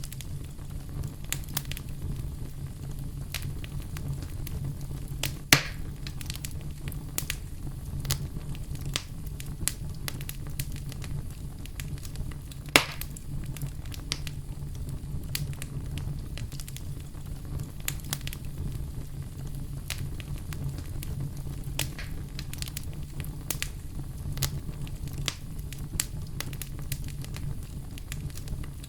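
Wood campfire burning, with a steady low rumble and frequent crackles, and two louder pops about six and thirteen seconds in.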